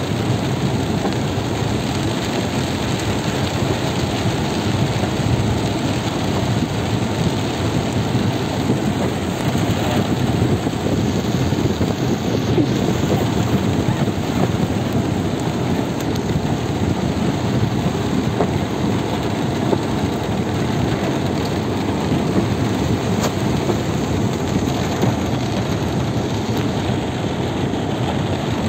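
Heavy rain pouring down in a steady, dense rush with no let-up.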